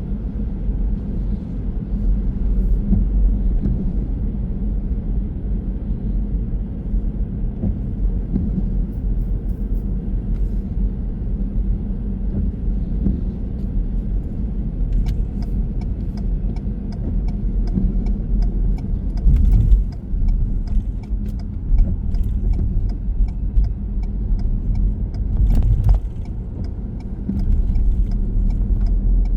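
A car's cabin rumble of engine and tyres while driving steadily. About halfway through, a light even ticking starts, roughly two ticks a second, and a couple of brief knocks stand out.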